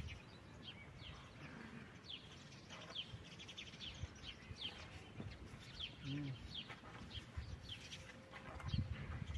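Small birds chirping repeatedly, many short quick high chirps, faint. A few soft low thumps come near the end.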